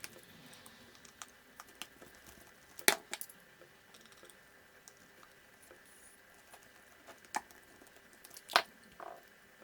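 Small scattered clicks and taps of RC car parts and tools being handled during a repair, with two sharper clicks about three seconds in and again near the end.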